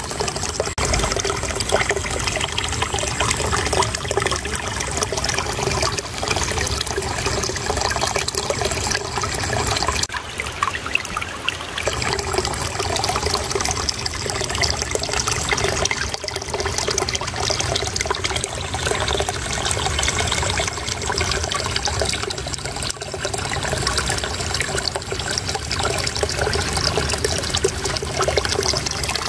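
Shallow running water babbling and trickling continuously, a steady rush that eases slightly for a moment about ten seconds in.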